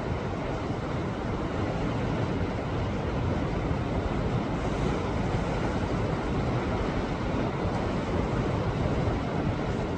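Sea waves washing against coastal rocks: a continuous rushing of surf with no single breaker standing out.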